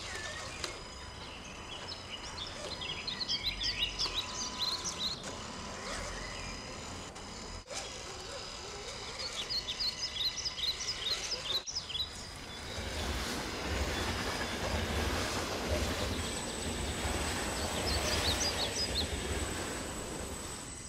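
Outdoor ambience: small birds chirping in quick high runs, three separate times, over steady background noise.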